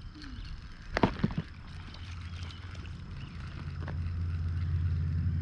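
A few sharp clicks about a second in, then the steady low hum of an engine, growing louder through the second half.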